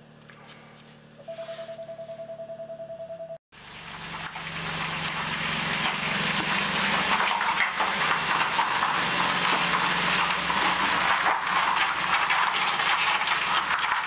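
An in-car warning chime beeping rapidly for about two seconds, then the Alfa Romeo Stelvio Quadrifoglio's 2.9-litre twin-turbo V6 starting and running steadily at a loud idle.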